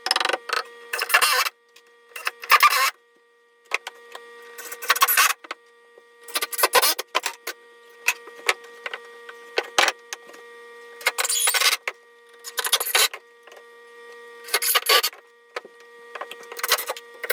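Irregular strokes of rasping, scraping noise, each lasting up to about a second with short gaps between, over a faint steady hum.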